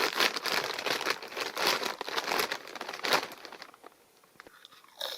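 Bag of potato chips crinkling as it is opened and handled, a dense crackly rustle for about three and a half seconds that then dies away. A short crunch near the end.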